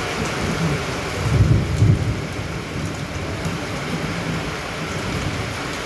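Steady rain, with a brief low rumble swelling about a second and a half in.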